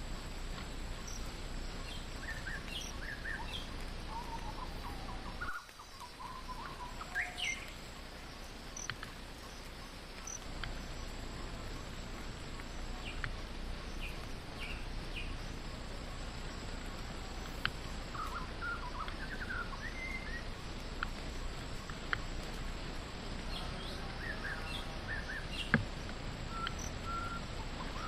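Forest ambience: scattered short bird chirps and calls over a steady, high insect drone and an even background hiss, with a few sharp clicks.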